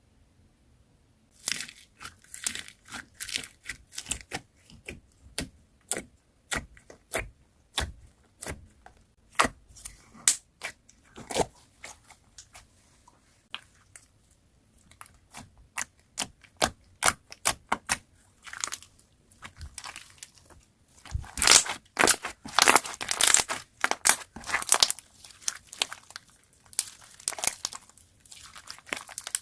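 Slime being pressed and stretched by hand, giving sharp crackling pops and clicks. They start about a second and a half in and come thickest a little past two-thirds of the way through.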